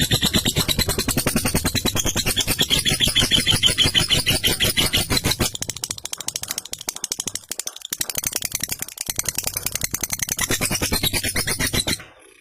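Lovebird chattering in a long, very rapid rattling trill, the 'ngekek' call: a fast stream of repeated sharp notes that thins out and breaks up about halfway through, picks up again, then stops abruptly near the end.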